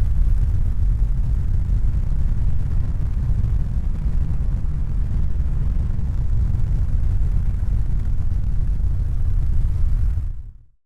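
Steady low rumbling noise, deep and even, fading out near the end.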